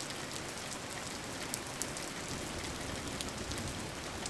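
Steady rain falling, a even hiss with many scattered droplet ticks.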